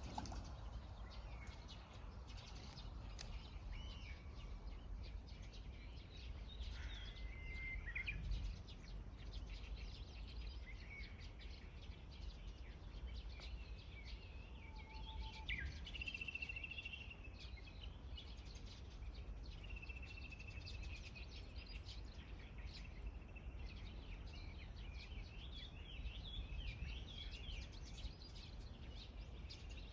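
Scattered bird chirps and short trills, faint, over a steady low rumble of outdoor background noise.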